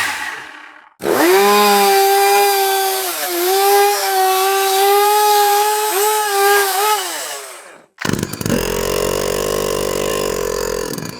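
Two-stroke chainsaw engine held at high revs with a steady high whine, dipping briefly twice, then cutting off about eight seconds in. After a short gap a lower, rougher chainsaw run follows near the end.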